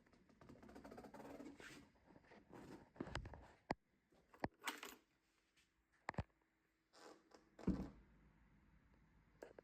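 Faint rustling, then a handful of separate sharp knocks and clicks, the loudest about three-quarters of the way through.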